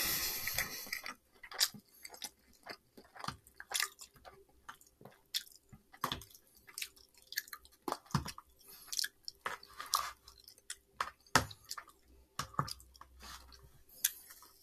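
Close-miked chewing and wet mouth sounds of someone eating takeout fried rice and chicken, with scattered sharp clicks of a metal fork against the plastic takeout container.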